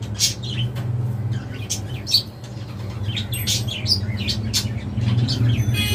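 Budgerigars chirping in rapid, overlapping short high chirps, over a steady low hum.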